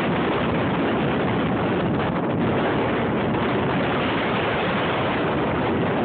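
Blizzard-force wind blasting across the camera's microphone: a loud, steady rush of wind noise without letting up.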